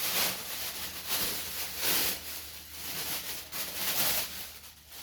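Packaging rustling as it is handled and opened, in three noisy swells about two seconds apart, fading near the end.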